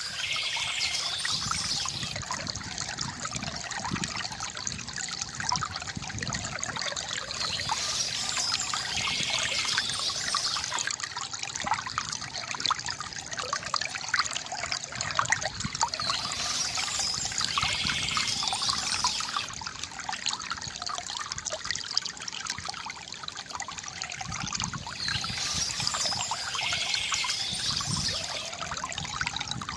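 Water trickling and gurgling steadily from a bamboo fountain, with a brighter swell in the high end about every nine seconds.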